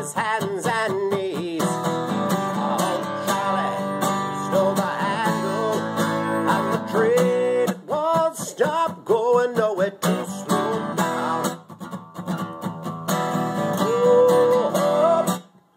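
Acoustic guitar strumming chords, with a melody line over it that wavers in pitch; the music stops abruptly near the end.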